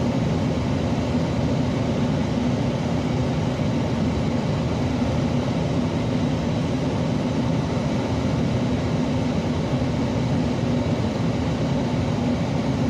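A steady mechanical hum with a low drone, unchanging throughout.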